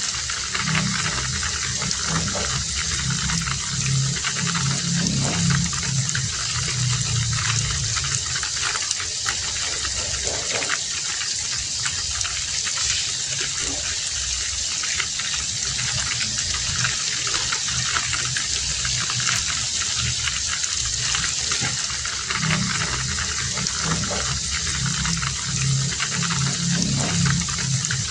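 Heavy rain falling steadily, a dense hiss of drops. A low rumble swells under it over the first few seconds and again near the end.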